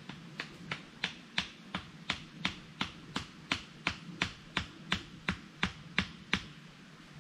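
A steady run of sharp knocks, about three a second, some eighteen strikes, stopping near the end.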